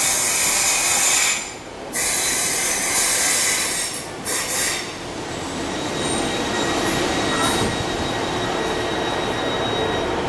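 Transport for Wales diesel multiple unit pulling into the platform and passing close by, the coaches rumbling with a thin wheel squeal. Loud hissing comes in the first few seconds, with a short dip just before two seconds in.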